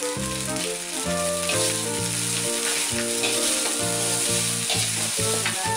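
Fried rice sizzling in a wok over a gas flame as it is stirred with a spatula, with background music playing: a melody over a stepping bass line.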